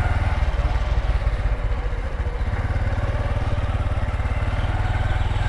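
Small motorcycle engine running steadily at low speed, a low throbbing note with fast even pulses.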